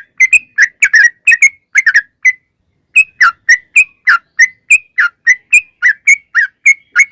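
Yellow-vented bulbul (trucuk) singing a long rapid run of short, bubbly whistled notes, about three a second, with a brief pause a third of the way through.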